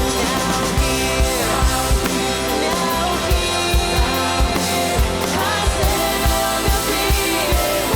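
Contemporary worship band music with a drum kit, the kick drum keeping a steady beat about twice a second under sustained chords and melody.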